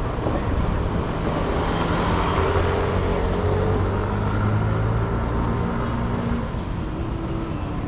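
City street traffic, with a motor vehicle's engine running close by. Its steady hum swells for a few seconds and then eases off as it passes.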